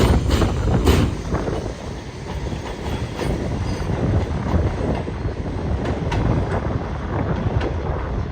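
New York City subway train running through on elevated track, its wheels clacking over rail joints: a few sharp clacks in the first second, then a steady rumble with scattered lighter clicks.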